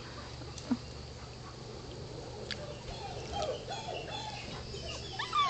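Labrador retriever puppies whining faintly, a run of short squeaky rising-and-falling cries starting about halfway through.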